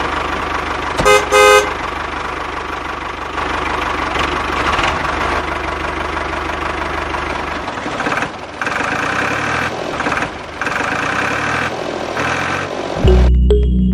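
Engine running steadily, with two short horn toots about a second in. From about eight seconds the engine sound breaks up with brief gaps, and music comes in near the end.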